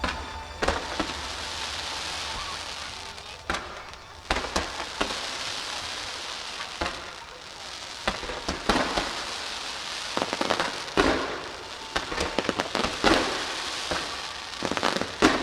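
Aerial fireworks bursting: a string of sharp bangs spread irregularly over a continuous crackling hiss.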